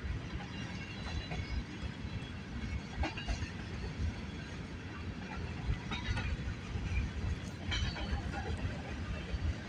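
Freight train cars rolling past: a steady rumble of steel wheels on rail, broken by irregular clanks and clicks.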